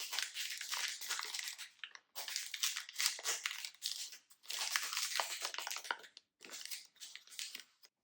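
Snack packaging being handled and crinkled close up, in four stretches with short pauses between them.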